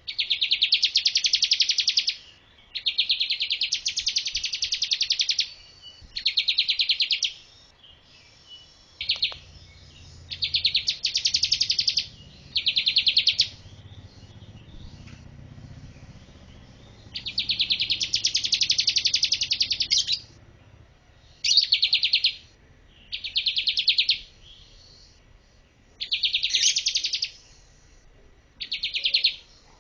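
Bar-winged prinia singing: about ten phrases of fast, evenly repeated notes, each lasting one to three seconds, with short pauses between them.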